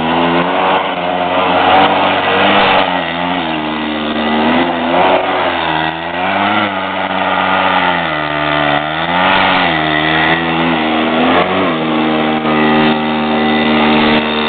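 Mini bike's small gas engine revving up and down repeatedly as it is ridden hard, its pitch dipping and climbing several times before holding steadier near the end.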